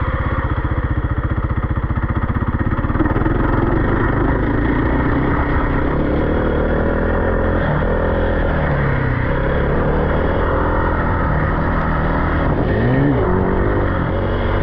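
Off-road vehicle engine running steadily, with the revs rising and falling a few times.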